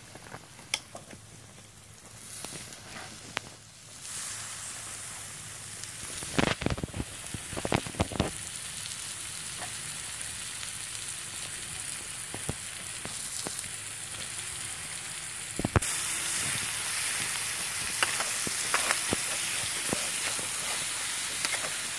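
Chopped snail meat and spice paste sizzling in a hot steel wok, starting about four seconds in. Sharp clatters come as food goes in and a metal spatula scrapes and stirs. The sizzle gets louder a little past the middle.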